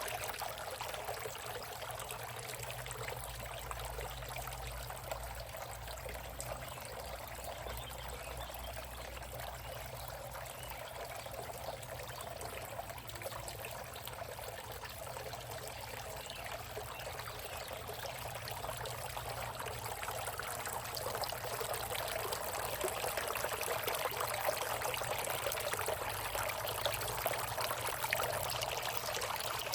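Small solar-powered water fountain running, its water splashing and trickling steadily, a little louder in the second half.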